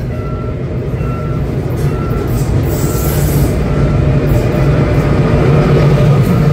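A train rumbling through a level crossing, growing steadily louder as it comes near. The crossing's warning bell rings over it, a short tone repeating about once a second.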